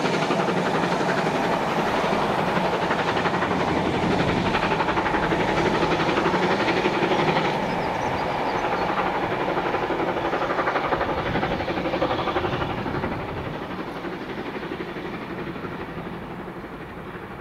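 Rake of passenger coaches rolling past on the rails, wheels clattering steadily, the sound fading over the last few seconds as the train draws away.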